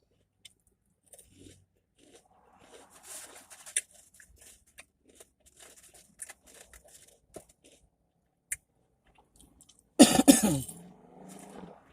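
Close-up chewing and mouth sounds of a person eating, in small scattered clicks and smacks, then one loud cough about ten seconds in.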